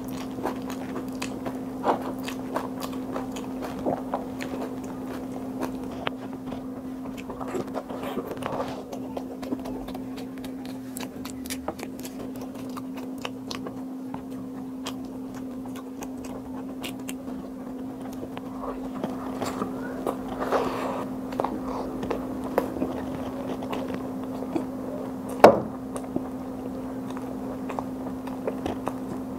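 Close-miked eating: soft chewing and wet mouth smacks with scattered small clicks, as chickpea curry and bhatura are eaten by hand. A steady hum runs underneath, and one sharper click comes near the end.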